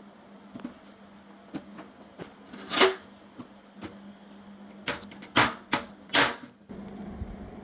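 Workshop clatter while aluminum door parts are handled: scattered light clicks and knocks, with three louder clanks about three, five and a half and six seconds in, over a steady low hum.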